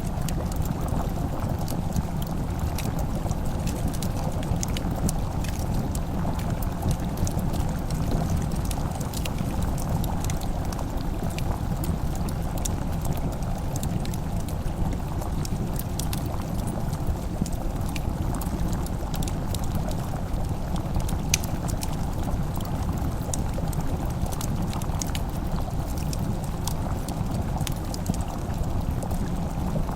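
Wood fire burning: a steady low rumble with sparse small crackles and pops scattered throughout.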